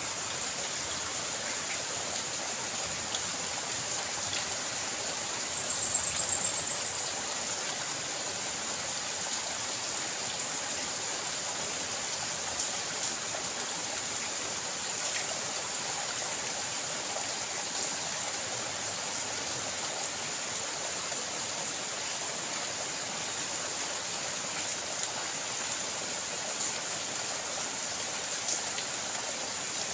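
Steady rain and running water make a constant hiss, with scattered drips. About six seconds in, a brief shrill trill sounds for a second or so.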